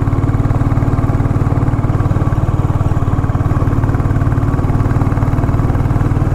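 Royal Enfield Classic 350's single-cylinder engine running at a steady speed, with a fast even pulse and no change in pitch.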